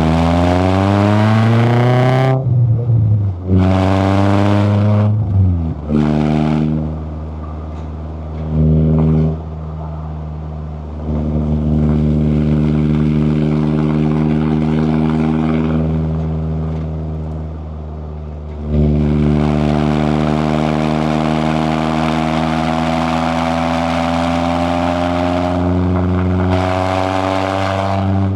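Toyota AE86 Corolla Levin's 4A-GE twin-cam four-cylinder engine pulling hard through the gears, with rising revs cut by a shift about two seconds in and a second climb ending near six seconds. It then runs on lighter throttle with the revs steady, climbs slowly for a stretch, and picks up again near the end.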